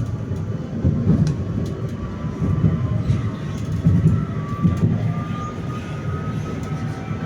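PKTS 71-931M Vityaz-M tram in motion: wheels rumbling over the rails, with a thin whine rising slowly in pitch from about three seconds in.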